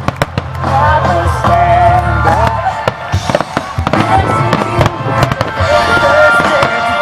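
Fireworks going off in a rapid series of bangs and crackles over loud music with wavering held notes.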